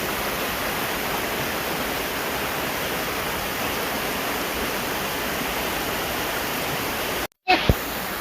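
Mountain stream water rushing steadily over rocks. Near the end the sound cuts out for a moment, then a brief louder sound follows.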